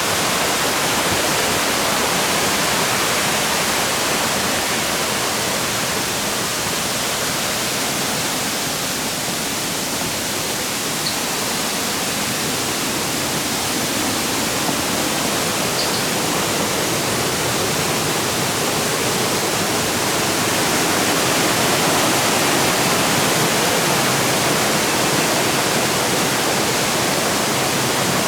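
Steady rush of shallow water flowing over rocks, an even hiss-like roar that holds at one level throughout.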